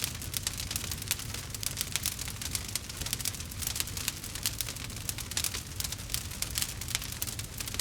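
Fireplace crackles blended with rain: dense, quick, irregular crackles and patters over a steady low rumble.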